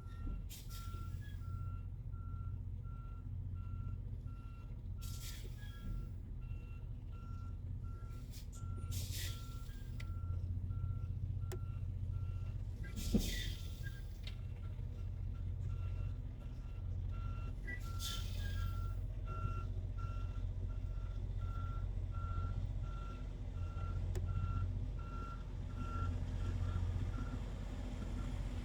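Semi truck backing up: its reversing alarm beeps about once a second over the low rumble of the diesel engine. Several short hisses of air come through along the way, with one sharp knock about halfway through.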